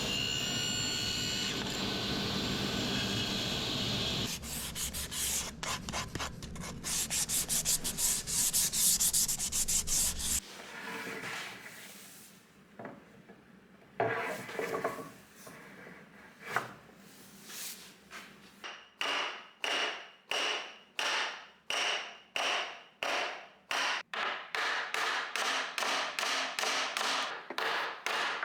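Solid wood being sanded by hand: rhythmic back-and-forth rubbing strokes. A steady noise fills the first four seconds, then comes a fast run of strokes, and near the end slower, even strokes at about one and a half a second.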